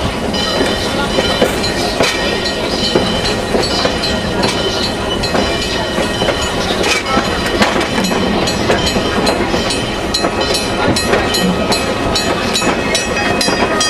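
A steam-hauled passenger train running along the track, its wheels rumbling and clattering over the rail joints, with the clicks coming faster and more regular about halfway through.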